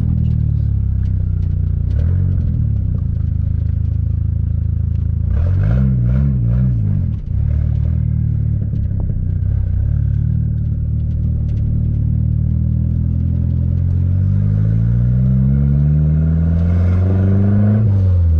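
Turbocharged 2.4-litre four-cylinder engine of a big-turbo Dodge Neon SRT-4 running. The revs rise and fall quickly about six seconds in. Over the last four seconds the pitch climbs steadily, then drops off at the end.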